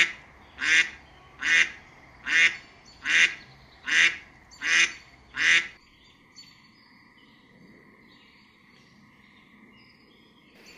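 Mallard duck quacking: a steady series of loud quacks, a little more than one a second, that stops about halfway through. Faint bird chirps follow.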